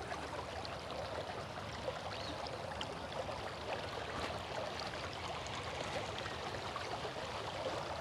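Steady rush and trickle of flowing river water.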